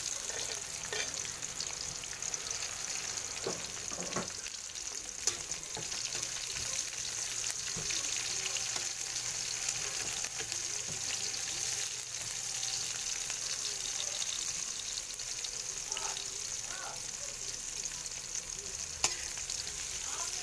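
Chopped onion and garlic sizzling in hot oil in a wok, sautéed for ginisang munggo, while a spatula stirs and scrapes through them. The spatula knocks sharply against the wok a couple of times.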